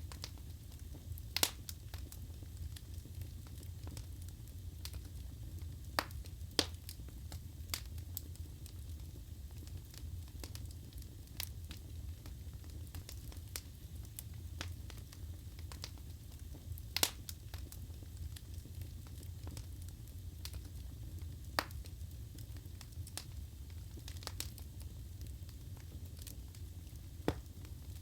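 Wood fire burning in a fireplace: a steady low rumble of the flames with scattered sharp crackles and pops from the burning logs, a few louder pops standing out.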